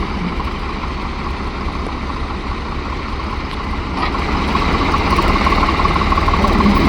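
Swaraj 735 tractor's three-cylinder diesel engine idling steadily, getting slightly louder from about four seconds in.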